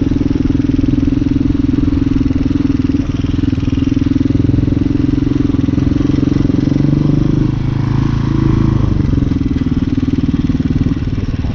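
Hyosung Hawk 250 motorcycle engine running steadily while riding, heard through an action camera's built-in microphone. The engine note shifts and dips briefly about seven seconds in.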